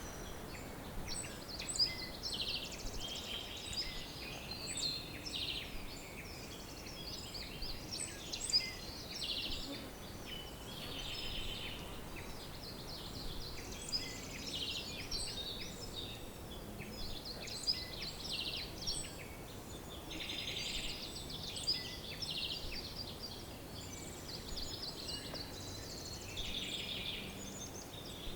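Birds singing in a dense, continuous chorus of overlapping chirps and quick trills, several birds at once, over a faint, steady background hiss.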